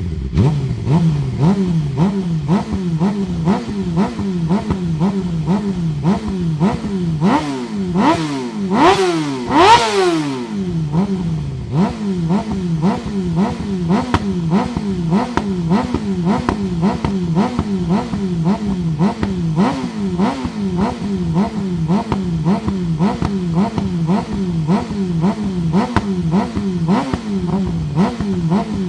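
Suzuki GSX-R600 K7 inline-four running through a Dominator HP3 exhaust with the catalyst and dB killer removed. It idles with a fast, regular rise and fall in pitch, and is revved in a few sharp throttle blips about eight to ten seconds in before dropping back to idle.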